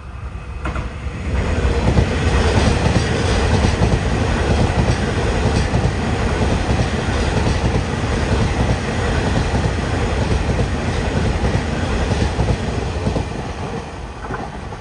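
A train passing close by on the main line, the sound building over the first two seconds, staying loud for most of the pass, and easing off near the end.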